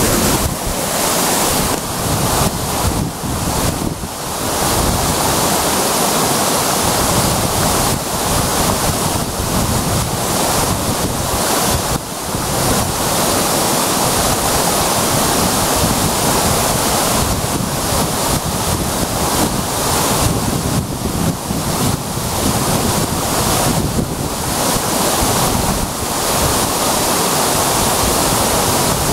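A waterfall's water falling and splashing in a loud, steady rush.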